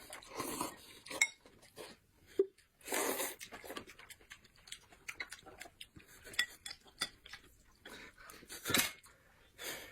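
Cutlery and dishes clinking during a meal, in scattered short clicks with a few louder noisy bursts.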